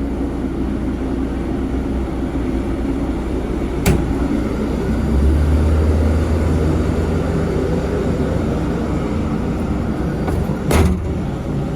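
Steady low rumble of jet aircraft engines at taxi power, with two sharp clicks several seconds apart.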